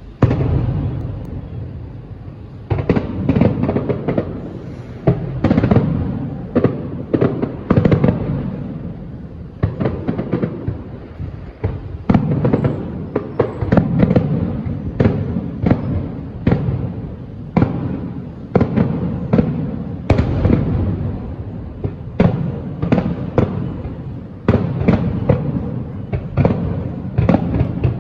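Fireworks display: aerial shells bursting in rapid volleys, many loud bangs a second with only brief lulls between barrages.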